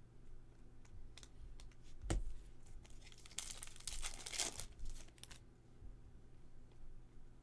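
Trading-card pack wrappers being torn open and crinkled by hand, with a thump about two seconds in and the longest rip around the middle.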